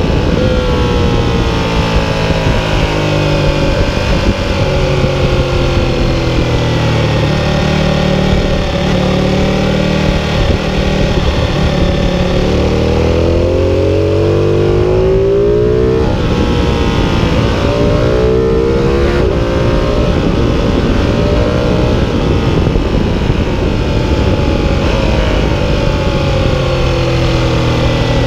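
Ducati 1299 Panigale's 1285 cc Superquadro V-twin on track, heard from onboard. Its pitch falls over the first ten seconds or so as the bike brakes and drops from sixth to third for a corner, then climbs in several rising sweeps broken by brief drops as the throttle opens on the way out, and rises again near the end. A steady rush of noise runs under the engine.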